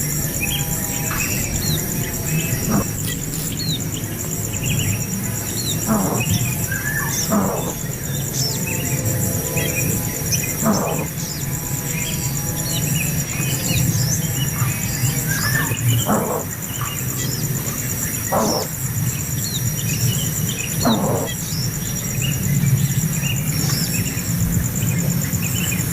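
Small birds chirping and calling again and again, over a steady pulsing high-pitched insect buzz.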